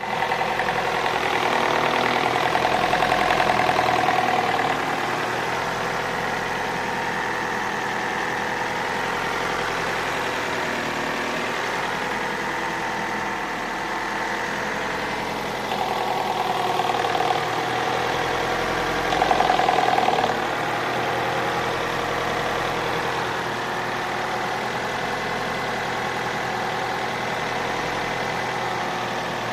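Opel Astra H engine idling with a knock, which the owner places somewhere at the back of the engine near the ECU and says is not the gears. The sound swells briefly three times.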